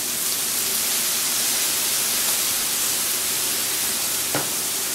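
Steady hiss of fried rice, onions, mushrooms and steaks sizzling on a hot flat-top griddle, with one faint click about four seconds in.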